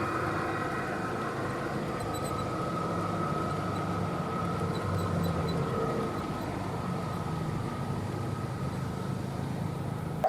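G-gauge model diesel locomotive running on garden track: a steady engine-like drone with a faint high whine.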